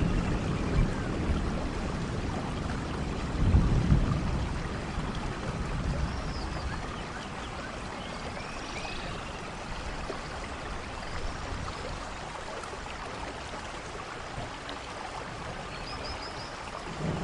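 Steady rain with low rolls of thunder; the loudest rumble comes about three and a half seconds in, and thunder builds again near the end.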